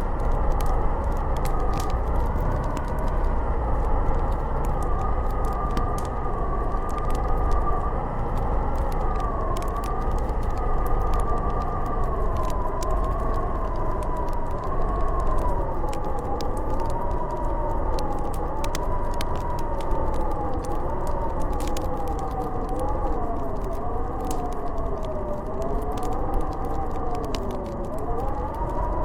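Howling blizzard wind, a steady low rumble under several wavering tones that slowly rise and fall in pitch, with a wood fire crackling in short sharp pops throughout.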